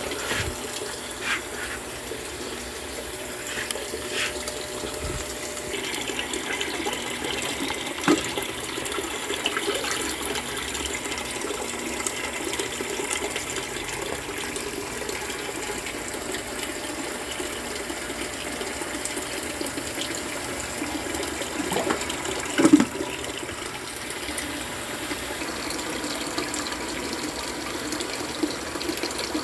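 Brastemp Ative 11 kg washing machine taking in water: a steady rush of water running into the tub, with a couple of brief knocks, the louder one about three quarters of the way through.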